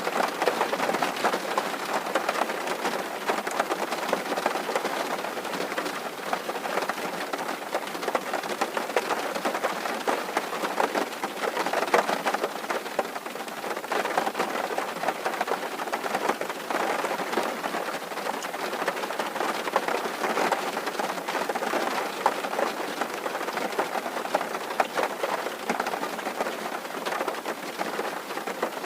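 Steady rain drumming on a tin roof: a dense, even patter of countless drops on the metal sheeting.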